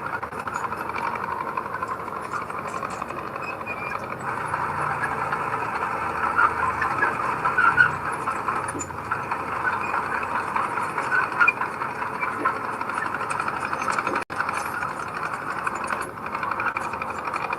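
Heavy earthmoving machinery, a bulldozer or dump truck, running steadily with a dense mechanical clatter, broken by a brief gap about 14 seconds in.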